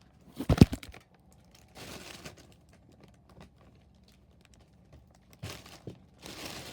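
A loud knock and bursts of rustling close to the microphone, with scattered faint ticks in between: handling noise.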